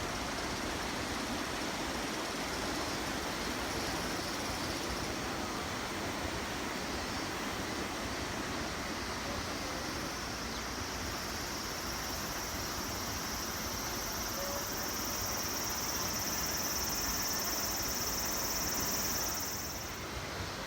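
Steady rush of river water over rapids, with insects buzzing high above it; the buzzing swells from about halfway through and stops shortly before the end.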